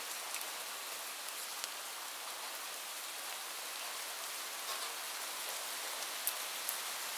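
Light rain falling steadily: an even fine hiss with scattered single drops ticking through it, two of them a little louder near the end.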